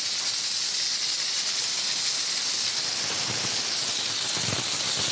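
High-pressure steam from a 20-bar LPG-fired steam car wash machine hissing steadily out of the spray nozzle, with a few low rumbles about three to four and a half seconds in.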